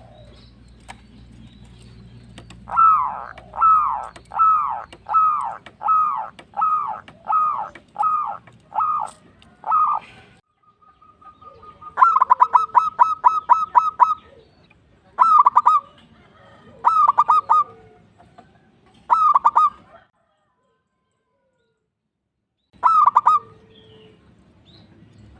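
Zebra dove (perkutut) cooing: a run of about ten short falling coos, then a fast rattling series of notes and several shorter bursts of coos, with a pause of a couple of seconds near the end. A faint steady low hum runs beneath.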